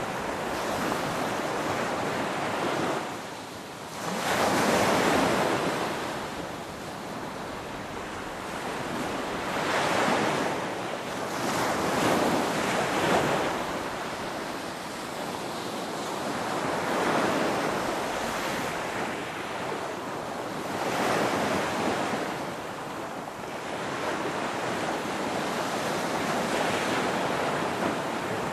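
Ocean surf: waves breaking and washing in one after another, the rushing swelling and easing every few seconds, with the strongest surge about five seconds in.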